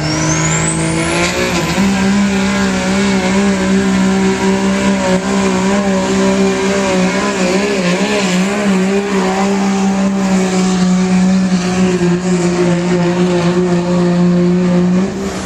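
2006 Dodge Ram's 5.9 Cummins inline-six turbo-diesel pulling a sled under heavy load. A high whistle climbs over the first two seconds, then the engine holds steady high revs and backs off suddenly near the end.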